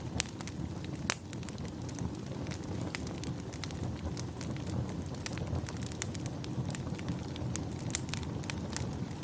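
Wood fire crackling in a fireplace: many sharp, irregular pops and snaps over a steady low rush.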